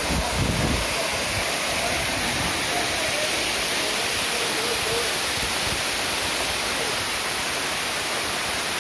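Waterfall rushing steadily, with faint distant voices now and then.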